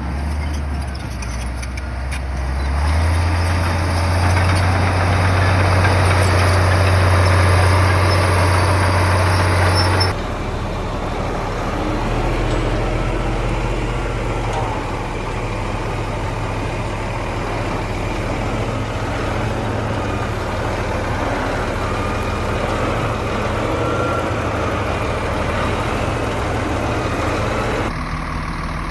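Diesel engine of a heavy earthmoving machine running under load, a strong low drone that rises about three seconds in. The sound changes abruptly about ten seconds in and again near the end.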